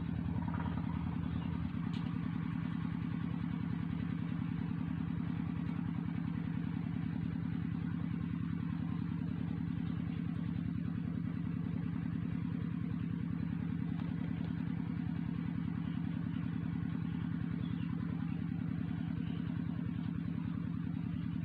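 A small engine idling steadily, with a fast even low pulse.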